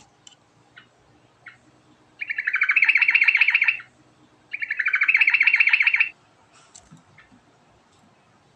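Yellow-vented bulbul (trucuk) singing two loud, rapid rolling phrases of quickly repeated notes, each about a second and a half long and separated by a short pause, with a few short chirps and clicks around them.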